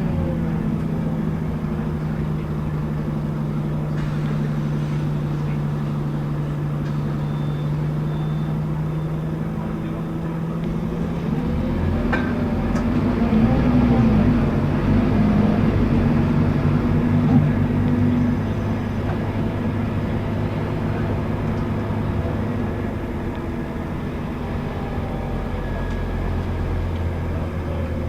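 Scania K280UB city bus heard from inside, its diesel engine and ZF automatic drivetrain running at a steady note. About twelve seconds in the engine note changes and the sound grows louder for around six seconds, as the bus pulls away or accelerates, then settles back to a steady run.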